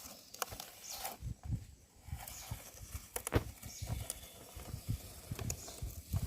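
Irregular light knocks and clicks as a toy car is handled and moved by hand, with soft thuds and rustling; one sharper knock comes about halfway through.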